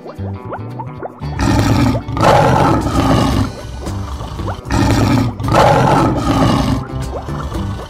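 A cartoon lion roar sound effect, heard twice, each lasting about two seconds, over background music.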